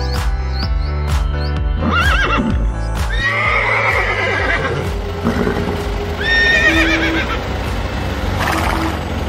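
Horse whinnying several times, each neigh a shaky, wavering call, over background music that has a steady beat in the first few seconds.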